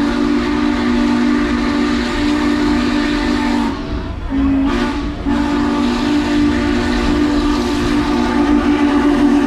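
Norfolk and Western 611's steam whistle blowing a chord: one long blast, a brief break about four seconds in, then another long blast, over the hiss of steam and the rumble of the moving train.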